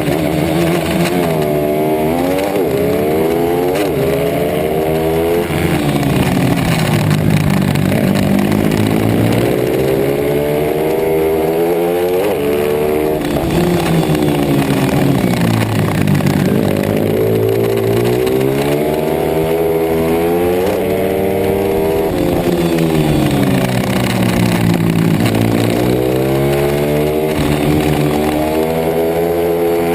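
Pit bike engine under hard riding. It climbs in pitch in steps through the gears, then drops off, about four times over, like a bike accelerating out of corners and braking into the next.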